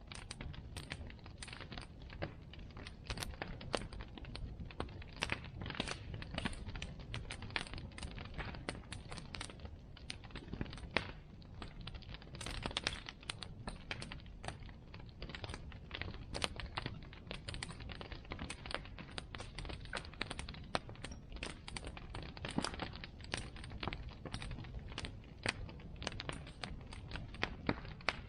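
Bonfire crackling, with many irregular sharp pops and snaps from the burning wood over a low steady rumble.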